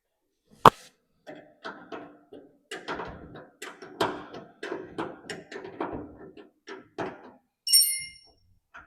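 Hand tools and metal parts being handled: a sharp metal knock about a second in, then a run of irregular clunks and taps, and a ringing metallic clink near the end.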